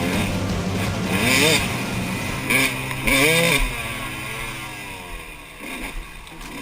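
Two-stroke dirt bike engine, a 2001 KTM 200 EXC, revving up and down twice in quick succession, each time with a rush of noise. It then drops back to a lower, quieter run near the end.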